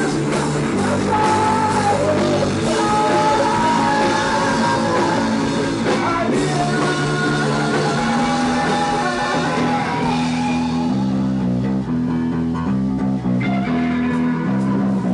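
Psychedelic rock band playing live, an instrumental break of lead guitar melody over bass guitar and drum kit. About ten seconds in the cymbals drop away and the bass and guitar carry on more sparsely.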